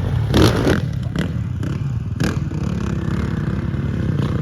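Dirt bike engine running steadily, with a few short clattering knocks in the first half.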